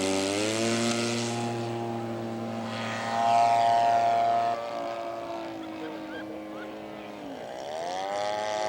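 Radio-controlled scale model airplane's engine and propeller running, its pitch holding steady after a rise, louder for a second or so in the middle, then dropping and climbing again near the end as the throttle is worked.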